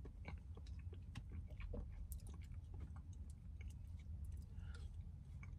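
Faint chewing of a spoonful of soft, creamy mac and cheese, with small scattered mouth clicks and smacks over a low steady hum.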